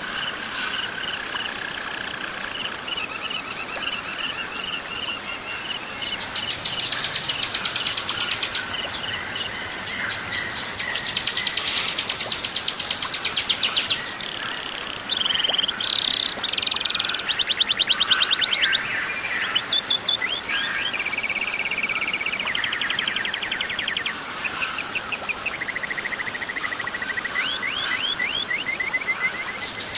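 Songbird song from a mixed warbler and bar-winged prinia (ciblek) recording: rapid high trills and repeated chirping phrases in changing bursts of a few seconds, starting about six seconds in. A steady high cricket trill runs underneath at the start.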